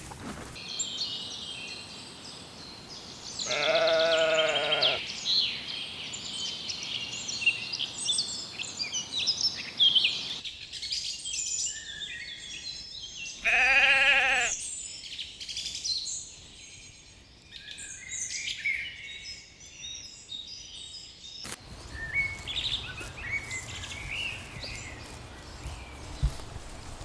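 Sheep bleating twice, each bleat about a second long with a wavering, quavering pitch, over continual birdsong.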